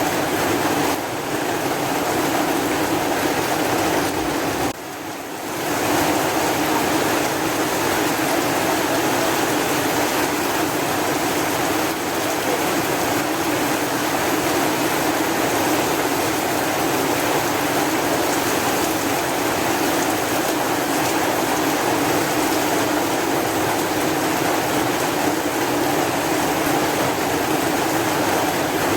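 Steady, dense heavy rain, an even hiss with no distinct drops standing out. The level dips briefly about five seconds in, then comes back to the same steady level.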